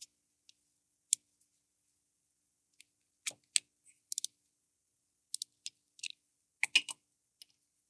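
Scattered small metal clicks and taps as a drill bit is taken out of a drill press chuck, with a quick run of three clicks about four seconds in and a louder cluster near the end.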